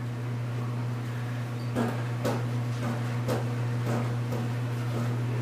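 A steady low hum, like a fan or appliance running, with a handful of soft clicks and knocks from about two seconds in.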